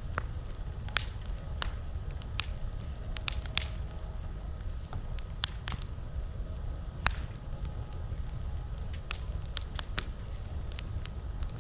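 Campfire crackling: irregular sharp pops and snaps of burning wood, a few of them louder, the loudest about seven seconds in, over a steady low rumble.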